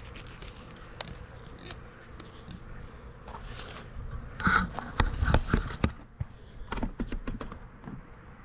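Honey bees buzzing around a small swarm being hived, with a cluster of sharp knocks and taps about halfway through.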